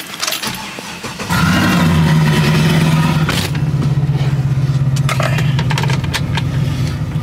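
Chevrolet TrailBlazer engine started: a short crank, then it catches about a second in and runs steadily, slightly higher at first before settling to idle.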